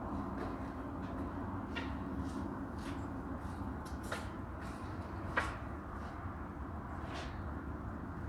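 Someone rummaging for a tool: faint, scattered clicks and light knocks, one a little louder about five seconds in, over a steady low hum.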